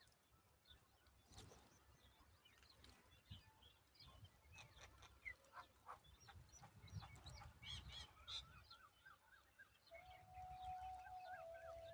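Faint, scattered chirps and short calls of small birds. Near the end a steady held tone comes in, with a quick wavering pattern above it.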